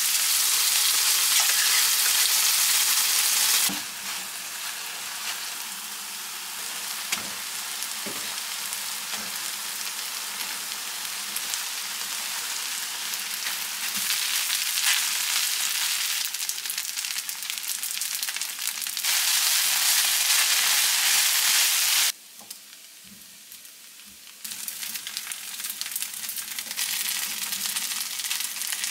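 Kimchi fried rice sizzling in a nonstick frying pan as a wooden spatula stirs it, with light scrapes and taps. The sizzle steps abruptly louder and quieter several times.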